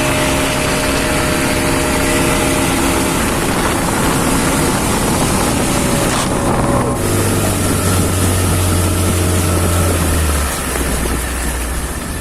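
A speedboat's 40 hp outboard motor running under way, with wind and water rushing. About halfway through the engine note shifts, and near the end it drops and gets quieter as the boat slows.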